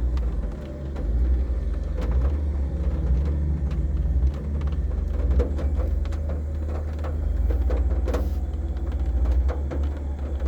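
Car engine being revved moderately while warming up: a deep steady rumble that swells and eases several times.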